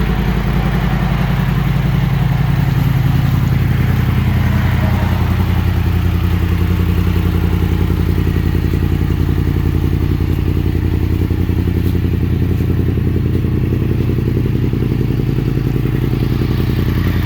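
2017 Yamaha FZ-10's crossplane inline-four, breathing through a full Graves titanium exhaust, idling steadily as it warms up after a cold start.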